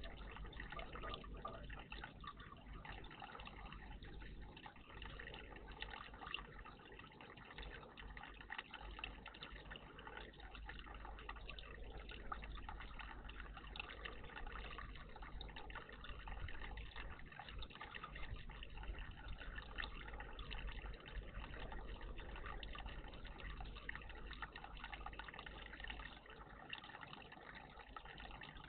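Water in a bird bath trickling and splashing steadily and faintly, with many small drips.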